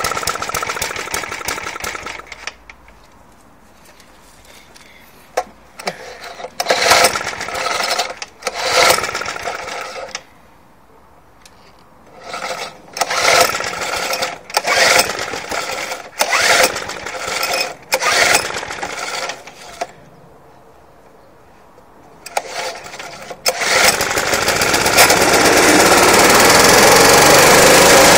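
Suffolk Punch 35S lawnmower's cold petrol engine being pull-started: repeated short whirring pulls on the starter cord in several groups, then about 24 seconds in it catches and runs steadily.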